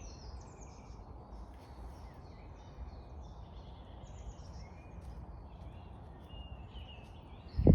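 Several birds singing and chirping in a spring woodland, over a steady low rumble. A short loud thump comes near the end.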